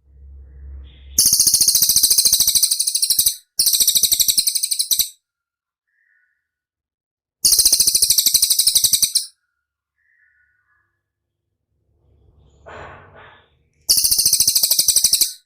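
Masteran recording of songbird 'rol speed' trills: four very fast, high trills of about one and a half to two seconds each, separated by short silences. A fainter, lower call comes shortly before the last one.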